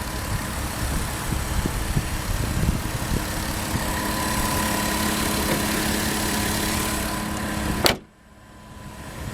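The 3.2-litre VR6 engine of a 2003 Volkswagen Touareg idling with a steady hum. About eight seconds in there is a sharp click, and the sound drops away abruptly.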